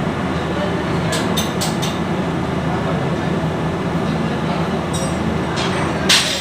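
Steady mechanical rumble with a low hum, over which metal tools or parts clink sharply several times: a quick cluster about a second in and more near the end.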